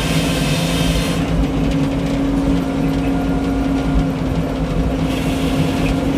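The engine driving a Frick circular sawmill runs steadily with a strong low drone. A higher hiss over it drops away about a second in and comes back near the end.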